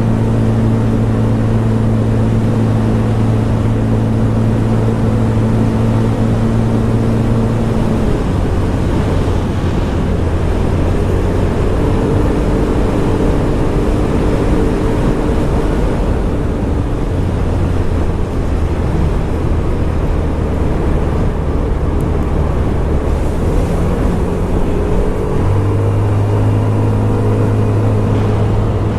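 Scomadi TT125 scooter's 125 cc engine running under way, with wind and road noise. The engine note drops about eight seconds in, shifts up and down and picks up again near the end as the rider eases off and accelerates.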